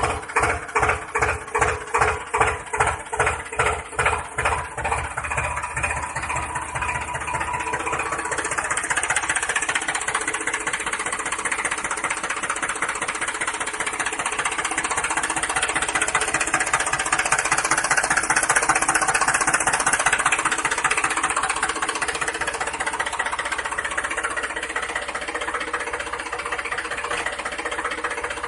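An engine chugging in even beats, about two a second, then running steadily from about nine seconds in.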